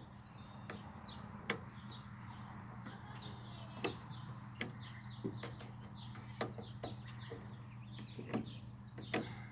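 Scattered sharp clicks and taps of a screwdriver and small metal parts being handled while a screw is worked into a small lawnmower engine, about ten of them irregularly spaced. Birds chirp faintly over a steady low hum.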